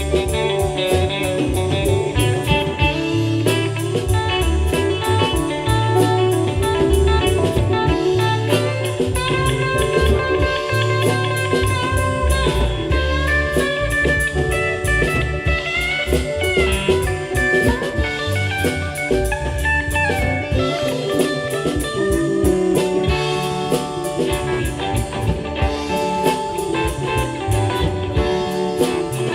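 Live rock band playing an instrumental jam: an electric lead guitar line with sliding, bending notes over bass and a drum kit.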